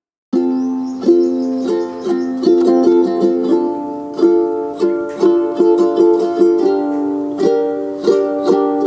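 Background music: a plucked-string tune of quick, sharply struck notes over sustained chords, starting a moment in after a brief silence.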